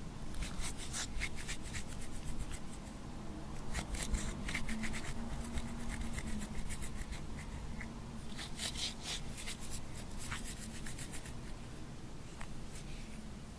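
Glossy slime being mixed and squished, giving quick runs of sticky clicks and crackles that come and go.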